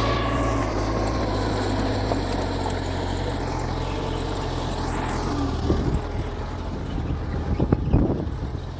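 Mitsubishi G2 bulldozer's diesel engine running steadily under work, with a few knocks and clanks near the end.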